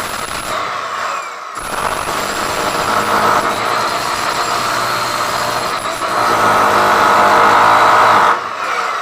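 A power tool running steadily under load. It gets louder for about two seconds near the end, then drops back.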